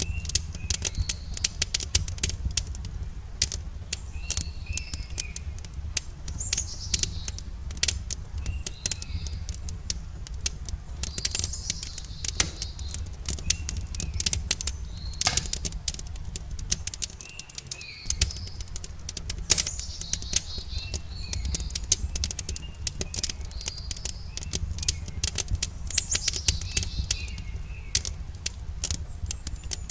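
Wood campfire crackling with frequent sharp pops over a low steady rumble, while small birds chirp in short repeated phrases every few seconds.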